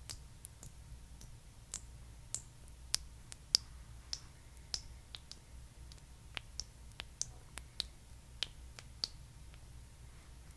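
A series of small, sharp clicks and taps from small hard objects being handled, coming unevenly at about two to three a second.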